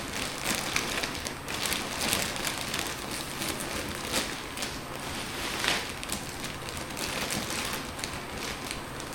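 Plastic vacuum storage bag rustling and crinkling as it is handled, with an irregular run of small crackles.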